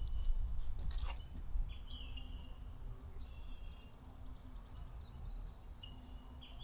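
Wild birds calling: several short high whistled notes and, about two-thirds of the way in, a quick trill of rapid high notes. A steady low rumble sits underneath.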